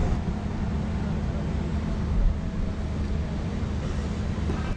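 Steady low rumble of helicopter engine and rotor noise.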